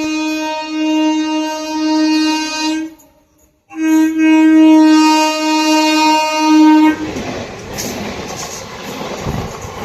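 Locomotive air horn sounding two long, steady single-note blasts with a short break between them, followed by the rumble of the train running past on the track.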